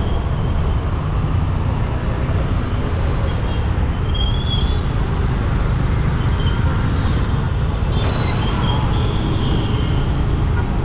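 Steady wind noise on the microphone of a moving motorcycle, with road traffic all around.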